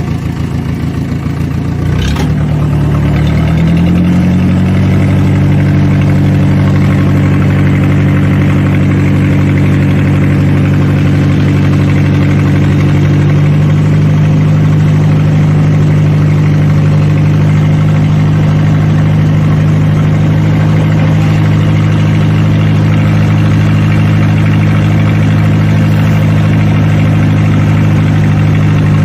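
Mahindra 575 DI tractor's diesel engine, fitted with a Holland silencer, picking up speed over the first few seconds and then running steadily. A single knock about two seconds in.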